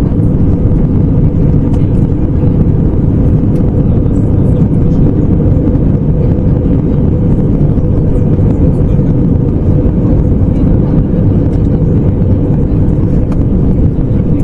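Steady, loud low rumble of airliner cabin noise in flight: the airflow around the fuselage and the Airbus A321neo's Pratt & Whitney PW1100G geared turbofan engines, heard inside the cabin.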